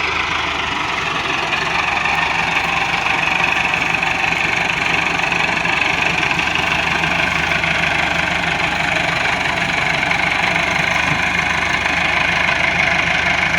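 Diesel tractor engine running steadily, a continuous even drone.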